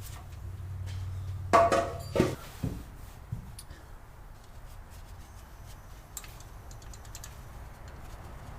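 Metal tools and engine parts being handled: a few sharp metallic clanks and clatters about a second and a half in, then light ticks and handling noises over a steady low hum.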